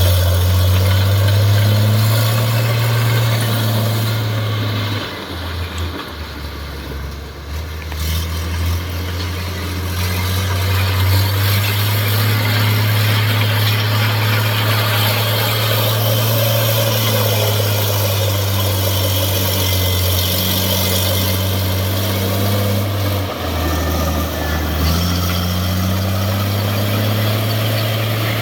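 Heavy diesel engine of earth-moving machinery running steadily. Its note drops lower twice for a few seconds and then picks back up.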